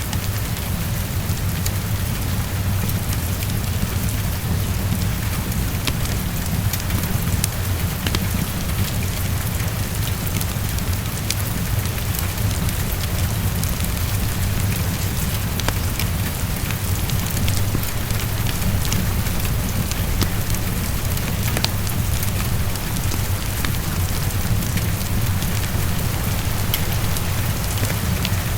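Heavy rain falling steadily, an even hiss with many scattered sharp ticks of drops, over a steady low rumble.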